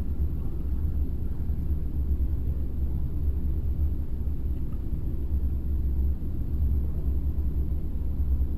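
A steady low rumble with no distinct knocks or voices, even in level throughout.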